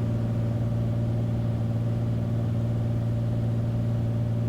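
Beechcraft Bonanza's single piston engine and propeller droning steadily in the cockpit, heard through the headset intercom, with a strong low hum that does not change in pitch.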